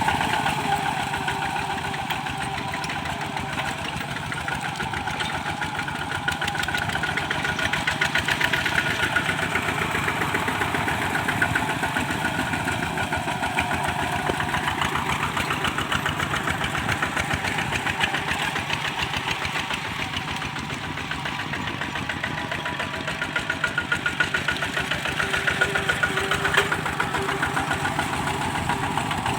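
Kubota walking tractor's single-cylinder diesel engine chugging steadily under plowing load, its loudness swelling and easing as it works.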